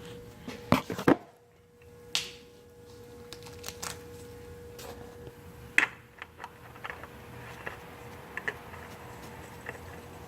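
Tools and parts being handled: scattered sharp clicks and knocks, a quick cluster about a second in and a single loud knock near six seconds, over a faint steady hum.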